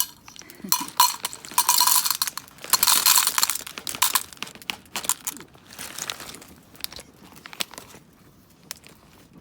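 Bursts of metallic clinking mixed with rustling, dense for the first few seconds, then sparser and fainter.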